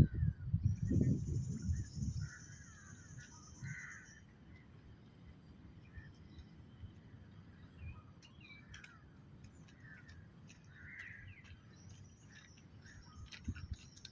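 Birds calling outdoors: a scattered series of short, harsh calls. A low rumbling noise on the microphone fills the first two seconds, and a faint steady high-pitched hiss runs underneath.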